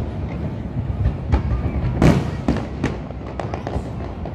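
Aerial fireworks bursting in quick succession: a string of sharp bangs over a continuous low rumble, the loudest about two seconds in.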